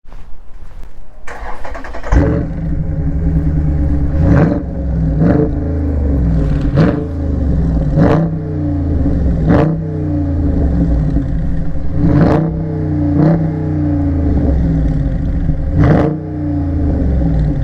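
6.4-litre (392) V8 of a 2020 Dodge Charger Scat Pack revved hard about nine times, each rev climbing sharply and dropping back, during a line-lock run that holds the front brakes while the rear tyres spin. A steady hiss runs under the engine from about a second in.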